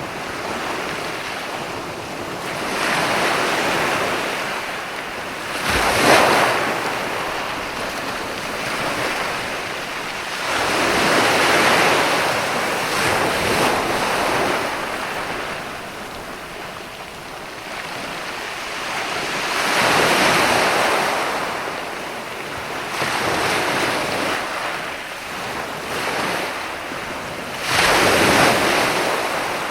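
Ocean waves breaking and washing onto a sandy beach, surging and fading every few seconds, with a sharper crash about six seconds in and another near the end.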